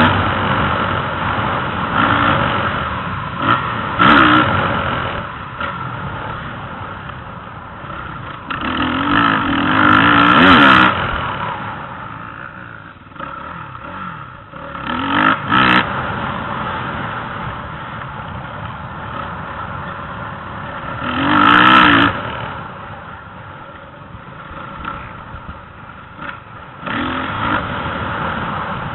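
Motocross motorcycle engines revving up and easing off over and over, with loud surges of throttle about six times.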